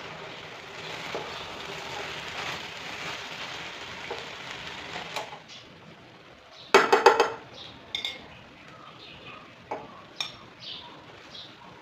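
Kitchen utensils and dishes clinking: a steady hiss for the first few seconds, then a quick rattle of several sharp knocks and clinks about seven seconds in, followed by scattered lighter clinks.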